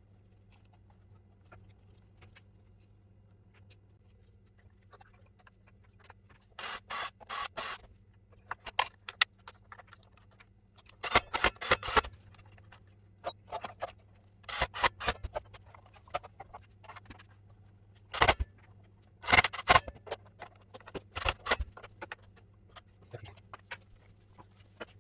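Irregular clicks, knocks and scrapes of tools and parts being handled, coming in quick clusters, the loudest about halfway through and again later, over a faint steady hum.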